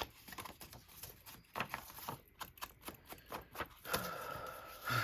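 Ink pad dabbed and rubbed along paper edges: a run of light, irregular taps and scuffs. A steady high whine sounds for about a second near the end.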